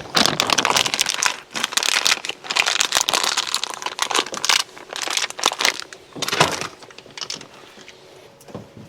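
Packaging being handled and crumpled: irregular crinkling rustles, thinning out near the end.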